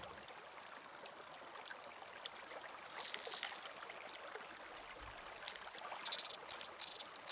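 Soft, steady rush of a forest stream with a continuous high-pitched insect trill over it; the trill grows louder and breaks into quick pulses near the end.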